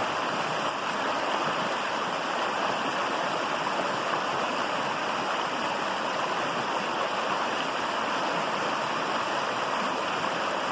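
Woodland stream flowing over rocks: a steady rushing and splashing of water.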